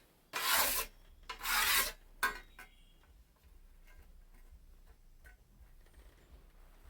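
Two long scraping strokes of a whetstone along a scythe blade, honing the edge, followed by a sharp clink with a brief faint ring.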